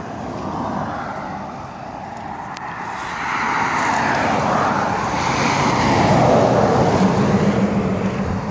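An aircraft flying past: its engine noise swells and rises in pitch, peaks about two-thirds of the way in, then falls in pitch as it passes. A steady low engine hum comes in near the end.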